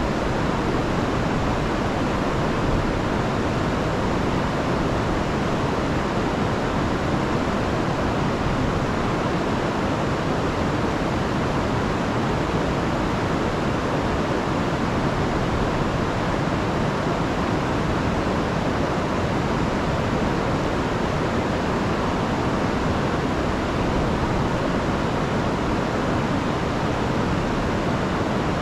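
Rain-swollen river rushing over falls, a steady full roar of water with no breaks.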